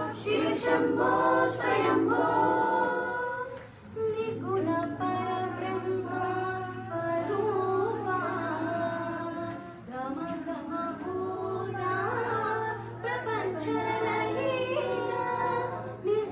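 Vocal music: voices, female among them, singing long, gliding melodic lines over a steady low drone, with a couple of short pauses between phrases.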